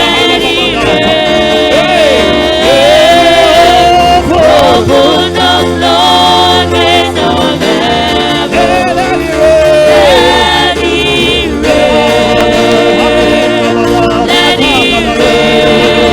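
Gospel worship singing: voices singing over a steady instrumental accompaniment of held chords.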